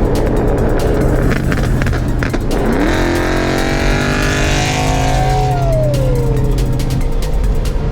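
Car engine revving: the pitch climbs sharply about two and a half seconds in, holds, then falls away over a couple of seconds, over a steady low drone.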